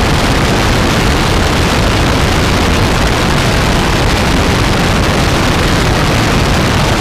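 Loud, steady rush of wind and aircraft engine noise over a GoPro microphone mounted on the plane's tail.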